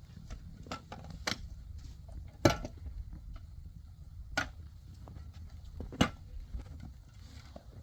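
A series of sharp knocks at uneven intervals, about six in all, the loudest near the middle and towards the end, over a steady low rumble.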